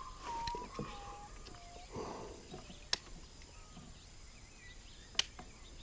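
A bird whistling a slow series of pure notes, each one lower than the last. Two sharp clicks follow, about two seconds apart.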